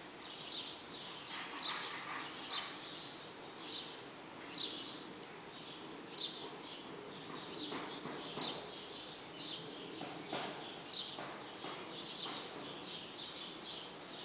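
Small birds chirping repeatedly: short, high, downward-sweeping notes about once a second, over a low steady outdoor hum.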